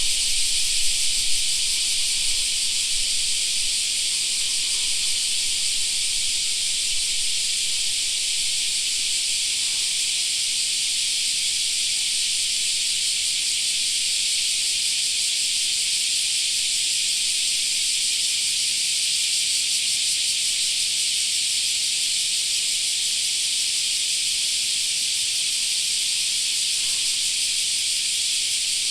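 Chorus of cicadas buzzing: a continuous, high-pitched, shrill hiss that holds steady without a break.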